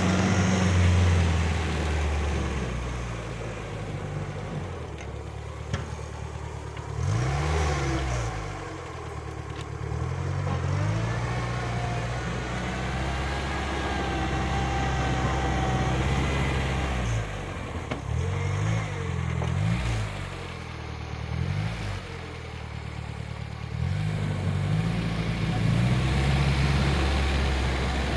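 Homemade mini tractor's engine running, its pitch rising and falling several times as it is revved up and back down.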